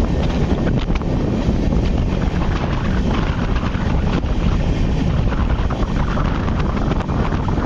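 Wind buffeting the microphone at the open door of a moving passenger train, over the steady rumble of the coaches running on the track.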